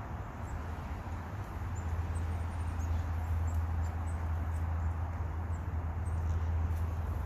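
Small birds giving faint, very short, high chirps every second or so over a steady low hum and hiss.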